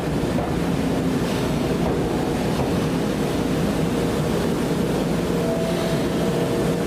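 Nankai electric commuter train moving along the platform: a steady rumble of wheels on rails with a faint motor hum, and a few higher motor tones appearing near the end.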